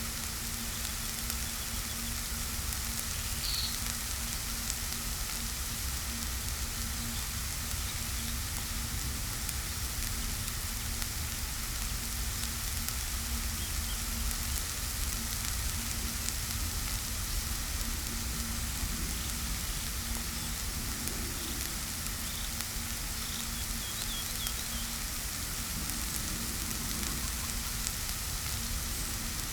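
Steady hiss of heavy rain falling, with a faint low hum that stops about two-thirds of the way through.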